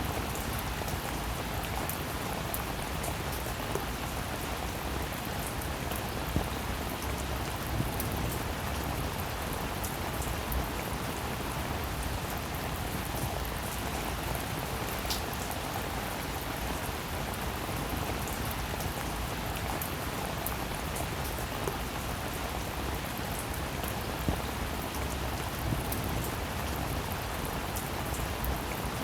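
Steady rainfall, an even hiss with scattered sharper drop ticks and an occasional louder single drop.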